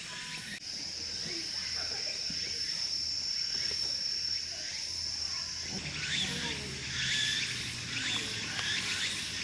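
A steady high insect trill, cricket-like, held for about five seconds, then a run of quick short chirps from about six seconds in.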